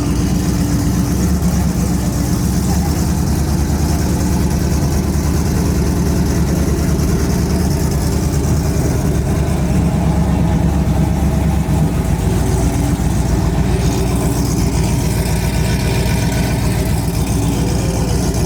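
Vehicle engines running steadily at low revs, idling rather than revving, with a change in the engine sound about twelve seconds in.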